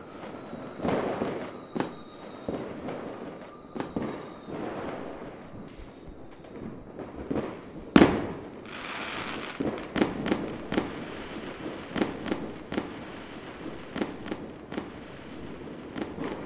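Fireworks going off: an irregular string of firecracker bangs, with one much louder bang about eight seconds in followed by a crackling hiss.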